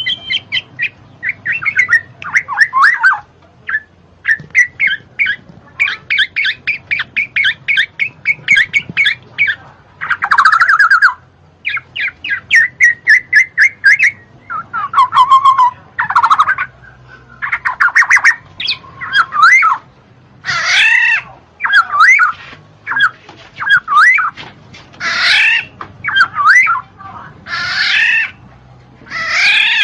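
Black-naped oriole (kepodang) singing: fast runs of rapidly repeated chirps alternating with looping, rising and falling whistled phrases, phrase after phrase with short gaps.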